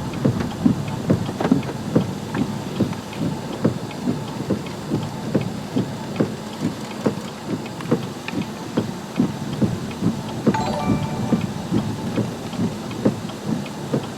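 Rain and storm wind heard from inside a car, with a regular knock about twice a second throughout. A short high-pitched sound comes about ten seconds in.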